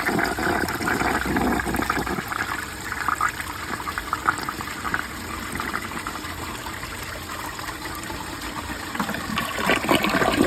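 1968 American Standard Cadet toilet flushing, water rushing through the bowl loudest in the first couple of seconds, then easing into a steady hiss and trickle as the tank and bowl refill.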